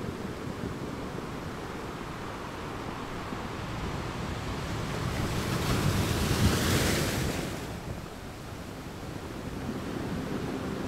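Sea waves washing onto the shore, with wind. One louder wave surges and breaks about six seconds in.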